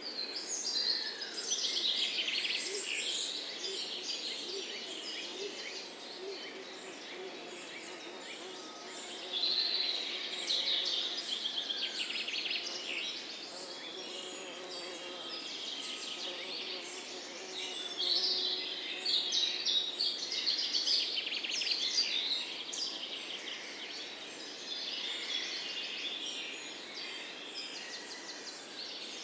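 Songbirds chirping and trilling together in a dense chorus. It swells louder three times: at the start, about a third of the way in, and about two-thirds of the way in. A steady run of short, very high notes comes about once a second throughout.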